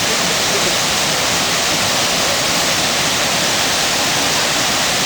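Steady, loud rush of running water.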